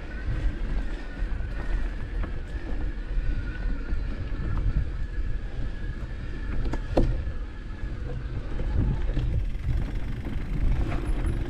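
Motocross bike engines running at fairly steady revs, with heavy wind rumble on the microphone and a sharp knock about seven seconds in.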